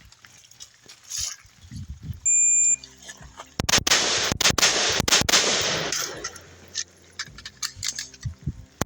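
A shot timer beeps once about two seconds in, and about a second later a rifle fires a rapid string of shots; more shots start again near the end.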